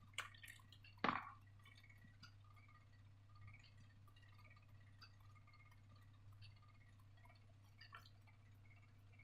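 Near silence over a low steady hum, broken by a few faint clicks and small taps of materials being handled, the two sharpest about a second apart near the start.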